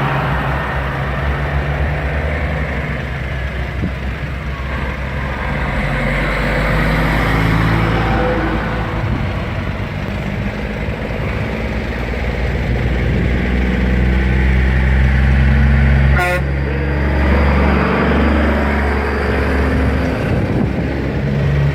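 Heavy truck's diesel engine running on the road, a steady low drone whose pitch shifts as it goes. A sharp click about sixteen seconds in.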